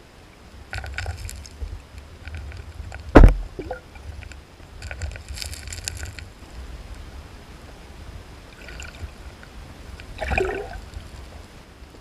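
Water splashing and sloshing in several short bursts, with one sharp, loud thump about three seconds in.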